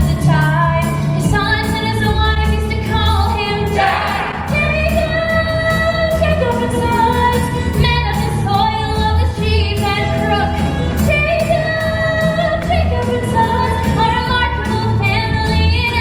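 A musical-theatre song with female voices singing over a band with a pulsing bass line.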